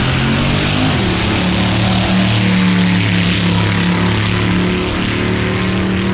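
A loud engine running at a steady pitch, with a dense hiss over it.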